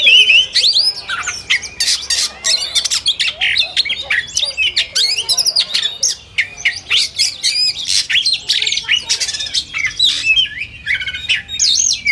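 Oriental magpie-robins singing in competition style: a dense, unbroken stream of quick whistles, trills, chattering and harsh squawky notes.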